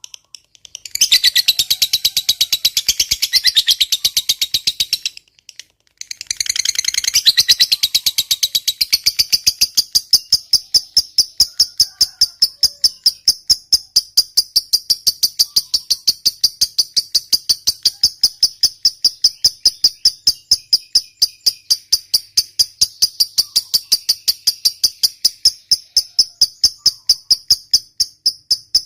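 Lovebird doing a long 'ngekek' trill. Dense, shrill chattering for the first several seconds, broken twice by short silences, then settling into a long, even run of sharp, high notes at about four a second.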